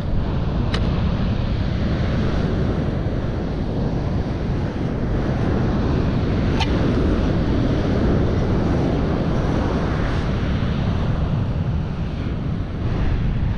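Strong wind buffeting the microphone over the steady wash of ocean surf, with a couple of faint clicks.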